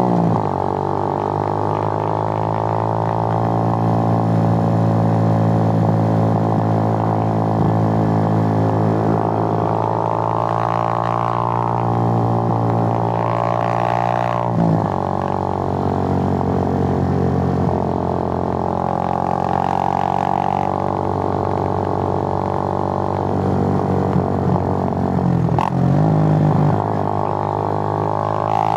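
Suzuki GN125's single-cylinder four-stroke engine running steadily under way, a loud, even drone whose note breaks briefly about halfway through and again near the end.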